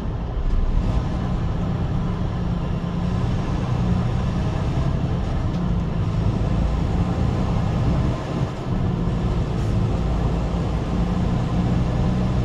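Steady low rumble of a truck driving, engine and road noise together, with a brief dip in loudness about eight seconds in.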